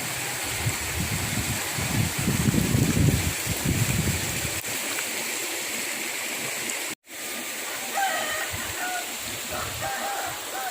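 Floodwater rushing steadily, with a low rumble for a couple of seconds about one to four seconds in.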